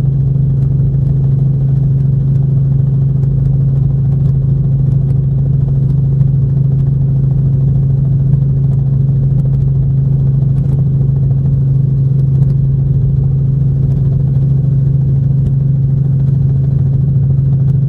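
Steady helicopter drone heard from inside the cabin: a loud, even low hum that does not change.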